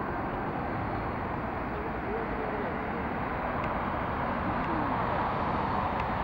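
Jet airliner's engines, a steady rushing noise that grows slightly louder.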